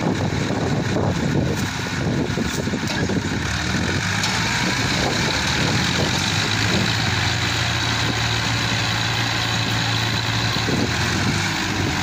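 Tractor engine running, with some knocks and rattles in the first few seconds, then settling into a steady, even running note.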